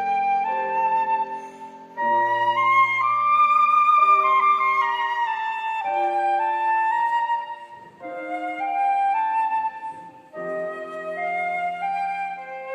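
Flute playing a slow melody of long held notes over lower accompanying chords, with brief breaks between phrases.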